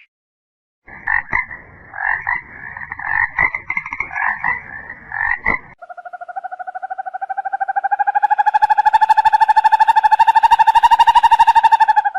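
Frog calls: first a choppy run of short croaks, then from about halfway a long, fast pulsed trill that rises slightly in pitch and grows louder.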